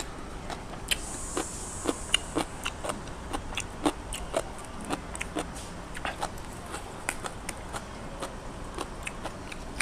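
Close chewing and crunching of crisp raw greens, with irregular crisp snaps a few times a second.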